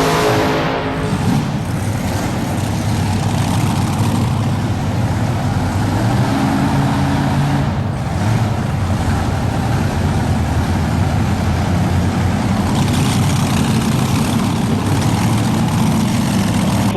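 Modified pulling tractor's 512-cubic-inch engine running hard at full throttle while it drags the weight sled down the track, its pitch shifting up and down through the run.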